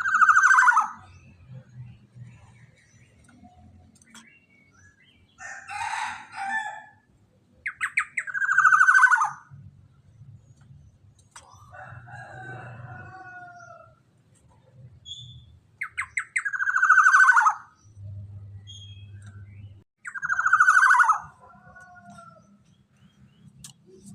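Black-naped oriole (kepodang emas) calling: a loud, harsh call that falls in pitch, given four times, with softer varied calls between. A faint low hum runs underneath.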